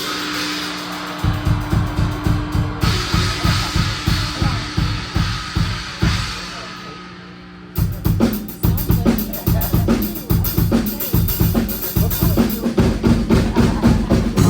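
Live rock drum kit opening a song: a quick, even run of bass-drum and tom hits starts about a second in over a held low tone and fades away, then the full kit crashes back in with cymbals about eight seconds in.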